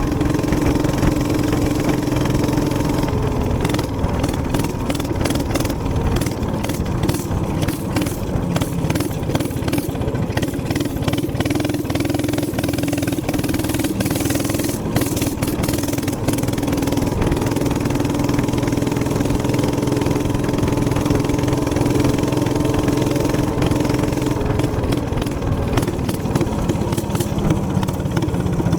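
Gas minibike's small engine running steadily under way, its pitch dropping a few seconds in and rising again later as the throttle changes.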